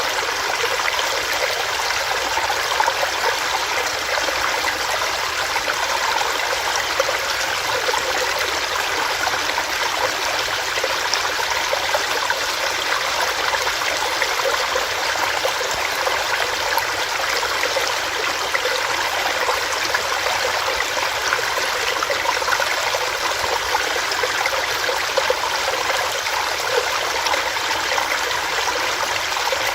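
A small stream running over rocks: steady splashing and burbling water.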